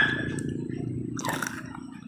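Close-miked chewing of juicy pomelo segments, with a wet crunch about a second in. A short high yelp sounds at the very start.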